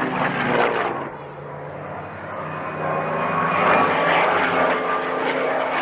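Propeller-driven airplane's piston engine running in flight as it passes. The sound dips about a second in and swells again from about three seconds in.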